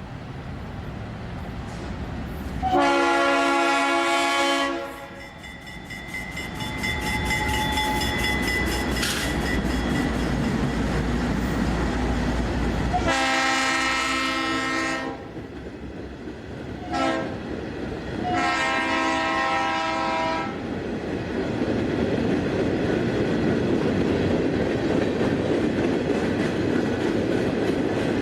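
Locomotive air horn sounding the grade-crossing signal: two long blasts, a short one and a long one, the standard warning for a road crossing. The train then rolls past with a steady rumble and clickety-clack of the wheels over rail joints.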